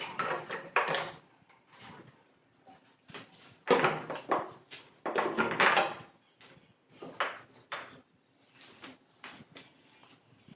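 Irregular clattering and scraping of hard objects being handled, in several short bursts with quieter gaps between them.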